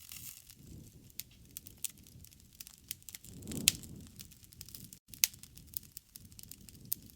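Wood campfire burning: irregular crackling with scattered sharp pops over a low rumble of flame. The loudest pop comes with a brief swell of the flame rumble about three and a half seconds in.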